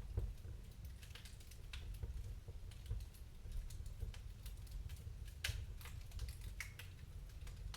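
Wood fire crackling in a fireplace: irregular sharp pops and snaps over a low steady rumble, the loudest pop about five and a half seconds in.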